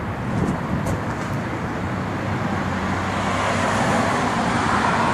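Road traffic noise, with a vehicle coming closer and growing louder toward the end.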